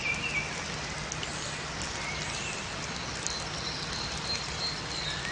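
Steady rain falling in a forest, with scattered raindrop ticks, and small birds chirping over it: a few short chirps near the start and about two seconds in, then a quick run of higher notes about three seconds in.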